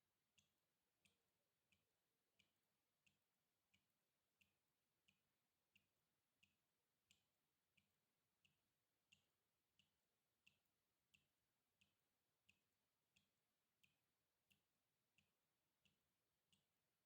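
Water dripping: faint single drops falling at a steady, even rhythm, about three drops every two seconds, each a short plink.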